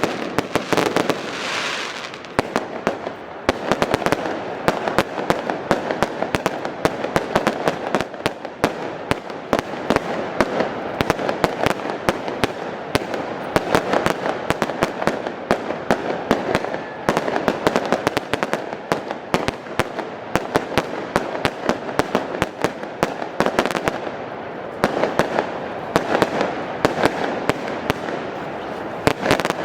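Fireworks display going off in a dense, continuous barrage: many sharp bangs and crackles a second over a rushing hiss.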